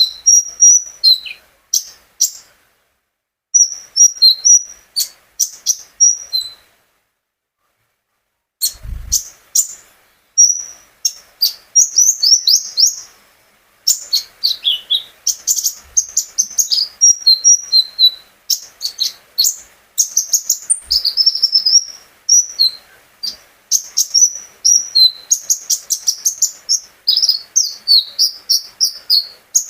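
Kolibri ninja sunbird (konin) singing in rapid, high-pitched chirps and trills, in phrases at first, then almost without pause. It falls silent for about two seconds near the middle, and a short low thump comes just as it starts again.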